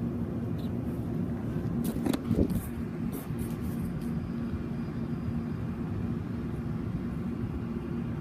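A steady low mechanical hum with a couple of fixed tones, like an idling engine or running machinery, with a few brief knocks and clicks of handling about two to four seconds in.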